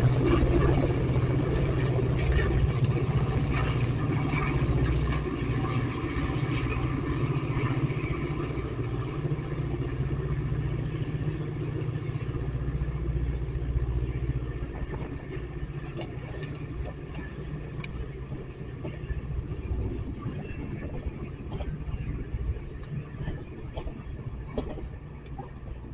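Train running with a steady low engine drone and rumble that slowly fades, with scattered sharp clicks and knocks in the second half.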